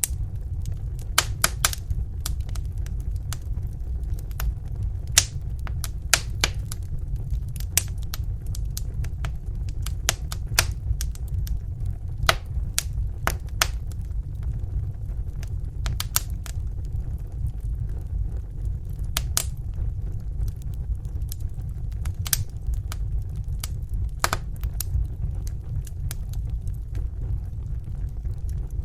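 Wood fire burning in a fireplace: irregular sharp crackles and pops, several every few seconds, over a steady low rumble of the flames.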